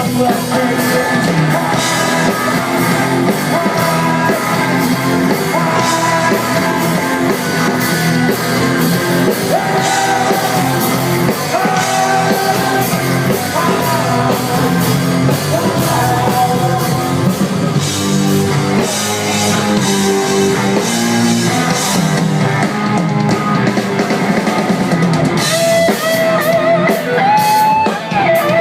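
Rock band playing live: drum kit, electric guitar and singing, loud and steady.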